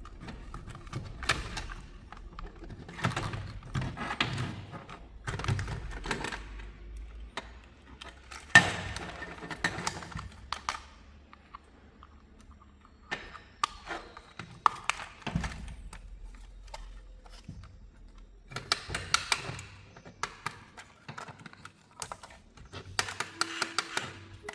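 Irregular bursts of light clicking and knocking with short pauses between them, the sound of hard plastic parts being handled.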